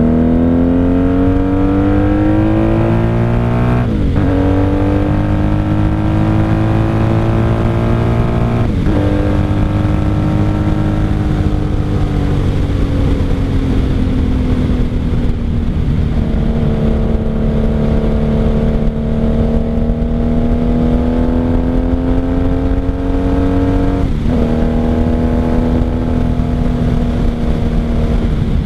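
Motorcycle engine running under way, its pitch climbing with speed and dropping sharply at three upshifts, easing off slowly for a while between the second and third.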